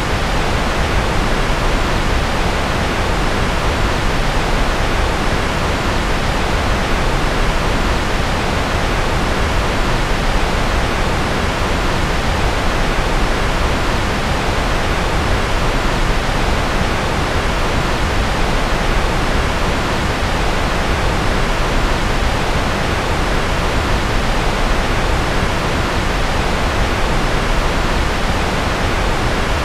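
Steady synthetic noise of the white/pink-noise kind: an even, unchanging hiss with no tones or events, strongest from the low end up through the mids and rolling off in the highs.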